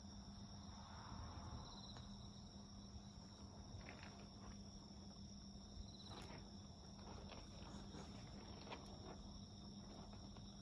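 Faint steady high trilling of insects, with a wood fire giving scattered crackling pops, most of them in the middle of the stretch.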